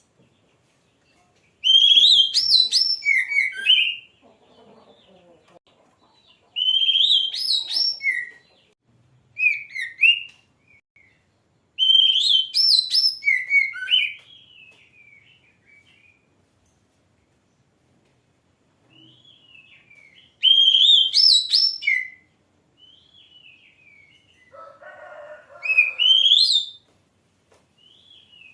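Oriental magpie-robin (kacer) singing: about six separate phrases of varied, rapidly gliding whistled notes, each a second or two long, with pauses of a few seconds between them.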